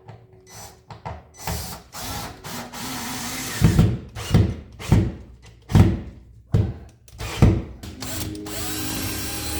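Power drill run in a series of short bursts, about six, each well under a second long.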